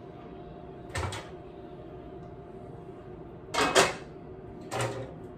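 Clunks and knocks from a hand-cranked honey extractor being handled as it is stopped and opened: one knock about a second in, a double clunk a little past halfway, and another near the end, over a steady low hum.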